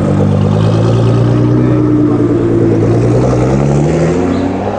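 A car engine under hard acceleration, loud, its note climbing a little and then dropping and fading away near the end as the car drives off.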